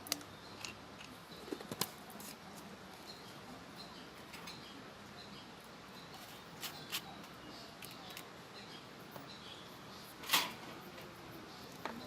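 Scattered light clicks and knocks of small hard objects, with one louder sharp knock about ten seconds in.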